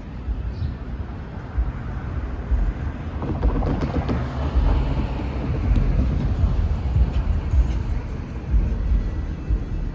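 Siemens S70 light rail train running through the station, its rumble and rail noise swelling from about three seconds in and easing off after six, with wind buffeting the microphone.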